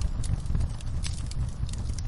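Wood fire in a fireplace crackling: a steady low rumble of burning with many small, sharp pops and snaps at irregular moments.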